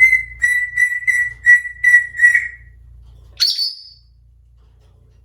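African grey parrot whistling a quick run of about seven short notes on one pitch, then giving a single higher whistle about three and a half seconds in.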